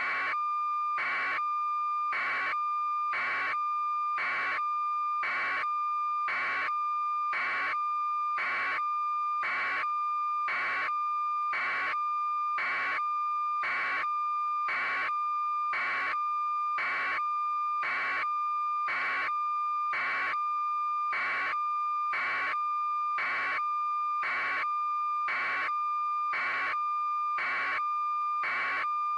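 A steady electronic tone, with a short pulse that repeats about once a second.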